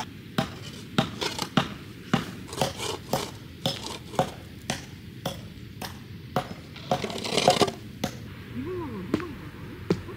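Axe chopping firewood: a run of sharp wooden strikes, irregular and about two a second, on a log that has not yet split.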